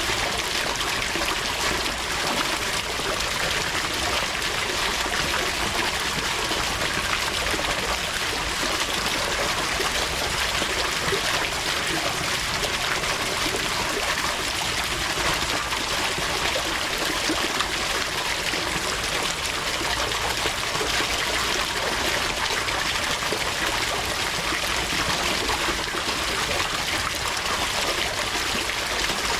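Running water, a steady trickle.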